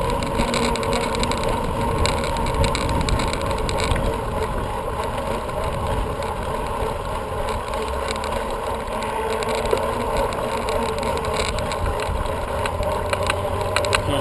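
Bicycle riding along: tyres rolling with a steady hum and a low rumble of wind on the microphone, with scattered light clicks near the end.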